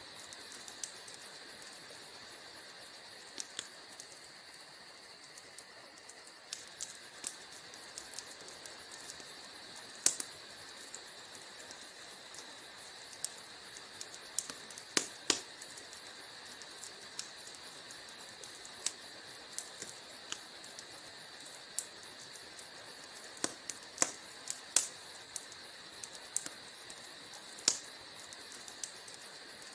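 Wood fire burning in a fireplace, crackling with irregular sharp pops over a soft steady hiss; a few pops stand out louder, about ten seconds in, around fifteen seconds and near the twenty-five second mark.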